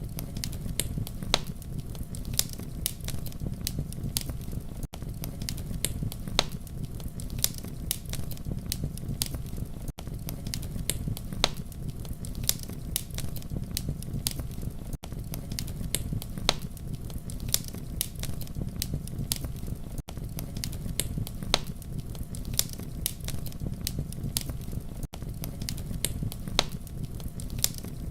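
Campfire crackling: frequent sharp snaps and pops over a steady low rumble of burning, with a brief dip in the sound about every five seconds.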